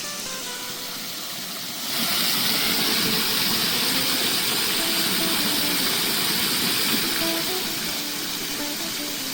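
A loud, steady rushing hiss starts suddenly about two seconds in and eases a little near the end, over soft plucked-guitar background music.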